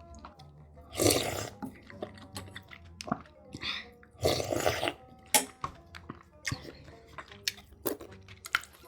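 Close-miked eating: chewing with many short wet clicks, and two louder crunchy bites, one about a second in and one past the middle.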